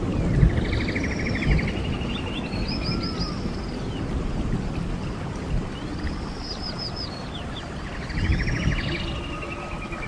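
A songbird singing phrases of fast buzzy trills and high, sweeping whistled notes, over a low rumble of thunder that slowly fades away.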